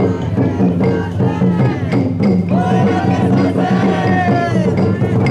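Festival drum float's taiko being beaten in a steady rhythm while the float's bearers chant, with one long held call near the middle.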